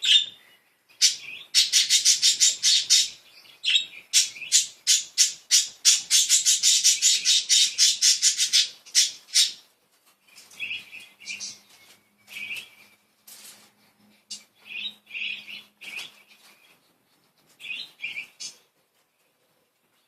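Budgerigars chirping and chattering: a fast, dense run of high chirps for about the first half, then scattered single chirps.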